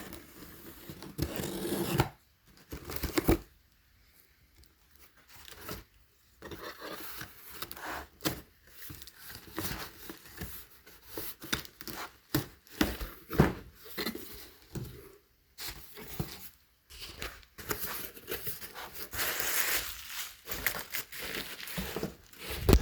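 A shipping box being opened by hand and its packing torn and crumpled, in irregular bursts of tearing and rustling with the odd knock.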